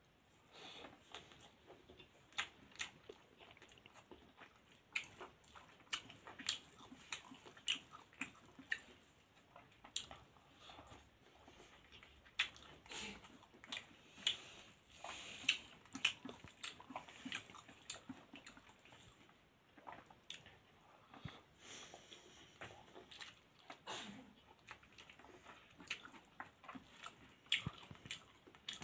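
Close-up mouth sounds of a person eating rice and dal by hand: chewing and smacking, with many short, irregular clicks.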